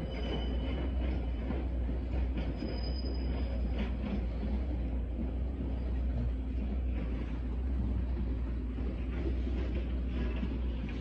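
Steady rumble of a train running on nearby tracks.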